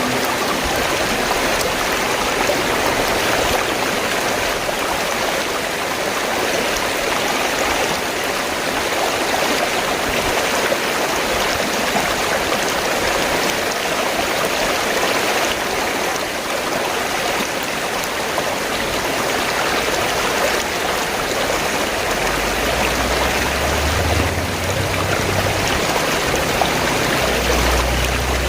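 River water flowing and rushing steadily, an even continuous wash, with a deep low rumble coming in during the last few seconds.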